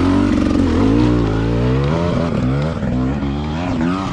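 Dirt bike engine running, its pitch rising and falling over and over as the throttle is opened and closed.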